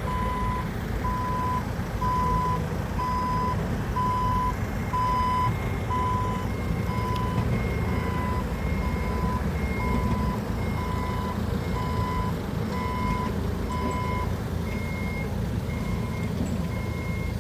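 A heavy machine's reversing alarm beeps steadily about once a second over a running diesel engine. The beeping fades near the end, while a second, higher-pitched alarm beeps from about halfway through.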